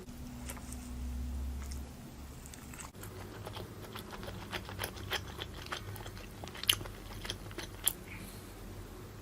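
Close-up chewing and biting of grilled barbecue skewer food, with crisp little crunches. Two sharper, louder clicks come near the end.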